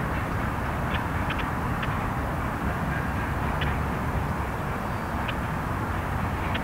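Steady rumbling noise of a freight train running out of view, with faint scattered high clicks.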